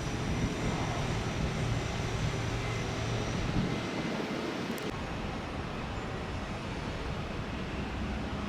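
Steady rumble of road traffic and airport noise, with a short click about five seconds in.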